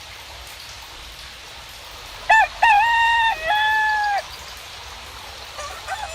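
A rooster crowing once, loud and drawn out, starting about two seconds in, over a steady hiss of rain. A second, fainter crow begins near the end.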